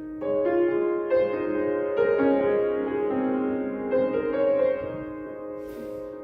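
Piano playing slow, sustained chords: the instrumental introduction to a worship song, before the vocal comes in.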